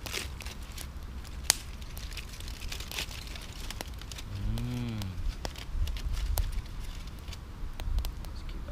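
A cow lows once, briefly, about halfway through, its pitch rising then falling. Scattered sharp crackles and clicks run throughout, with one loud crack about a second and a half in.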